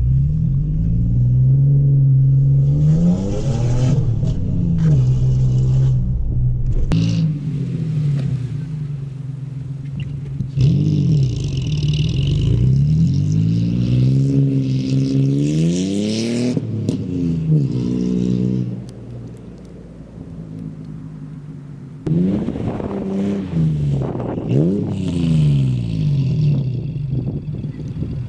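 Lifted Ford Ranger's engine revving up and falling back again and again through an MBRP cat-back exhaust as the truck is driven hard in deep snow. A hiss rises with the hardest revs. There is a quieter lull about two-thirds of the way through.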